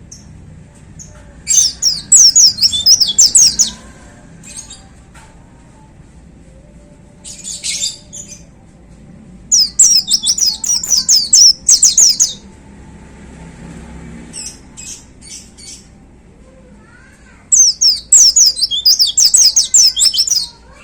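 White-eye (pleci) singing in three loud bursts of rapid, high chirping notes, each lasting about two seconds, with a few softer calls between them.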